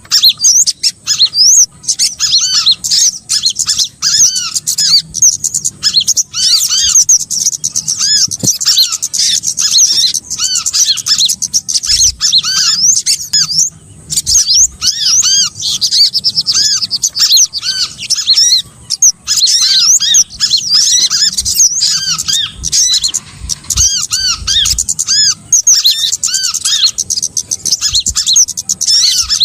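Lure recording of small birds calling, used to draw birds in for trapping: a dense chorus of many quick, overlapping high chirps and arched notes with no break.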